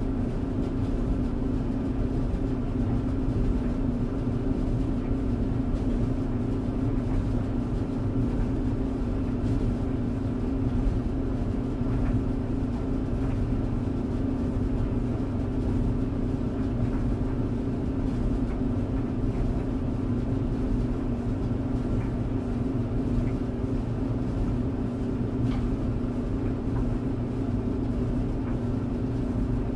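Clothes tumble dryer running: a steady hum over a low rumble, with an occasional faint tick.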